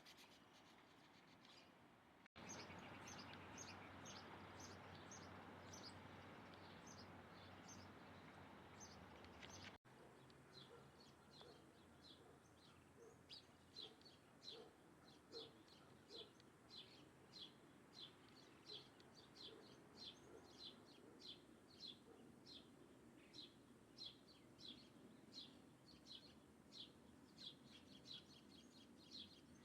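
A small bird calling over and over in short high chirps, about two a second, over a faint background hiss. The clip breaks twice, about two and ten seconds in, with a louder, noisier stretch between the breaks.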